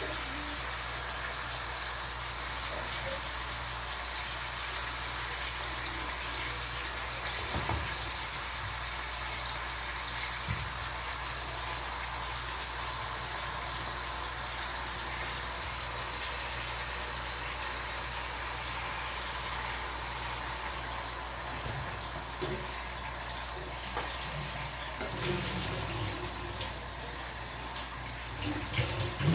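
Pork ribs frying in a pan, a steady sizzle, with a low steady hum underneath.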